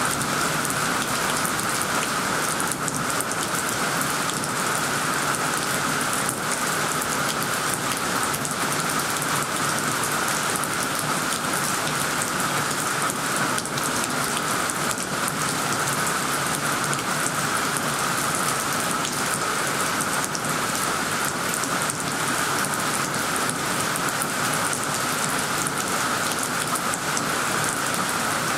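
Steady rain falling on leaves and plants, a continuous even hiss with no break.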